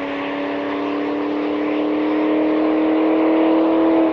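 Bentley accelerating down a drag strip in full throttle, its engine a steady note that slowly rises in pitch and grows louder, then breaks off abruptly near the end.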